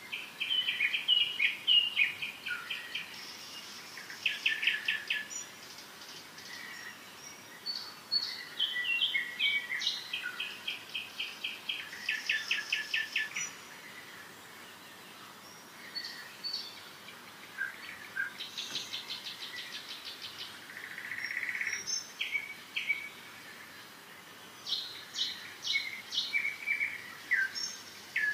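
Birds singing: short chirps and fast trilled phrases, each lasting a second or two, with brief pauses between them.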